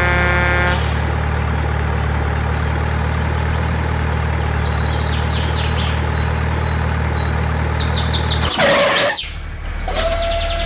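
Steady low engine drone, with short bird-like chirps over it. About eight and a half seconds in the drone breaks off in a brief noisy burst, and a steady whine starts near the end.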